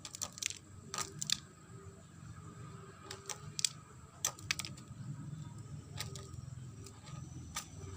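Pieces of chalk snapping and crunching: about a dozen sharp, irregular cracks, over a low steady hum.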